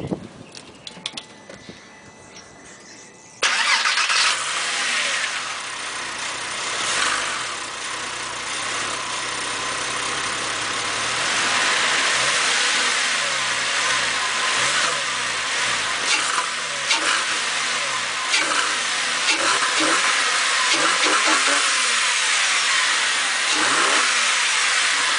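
A 2004 Porsche 911 Carrera (996) 3.6-litre flat-six starting from cold, heard with the engine lid open. It fires abruptly about three seconds in and settles into a loud, steady fast cold idle. The engine breathes through an Evolution Motorsport air intake kit and runs a Softronic ECU upgrade.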